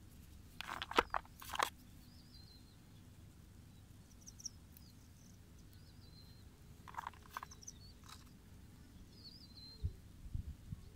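A small bird chirping short, repeated high phrases every second or two, with a few sharp clicks and knocks about a second in and again around seven seconds as stones are handled.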